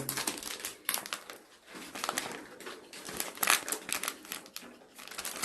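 Plastic-wrapped tissue packs being handled, giving an irregular crinkling and rustling with small clicks and taps.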